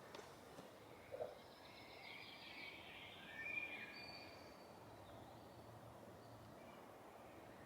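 A songbird singing faintly: one short warbling, trilled phrase a couple of seconds in, with a brief thin whistle after it, over quiet outdoor background.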